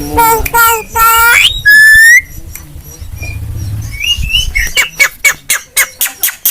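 Javan myna (jalak kebo) calling loudly: whistled and squawking notes with a rising whistle about two seconds in, then, near the end, a quick run of sharp clicking notes, about four a second.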